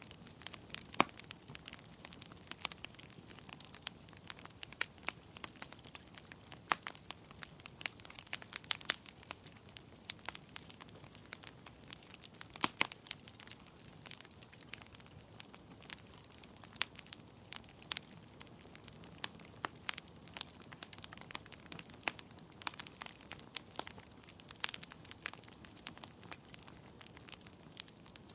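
Wood fire in a fireplace crackling: burning logs give off frequent irregular sharp pops and snaps over a faint low hiss, with a few louder pops.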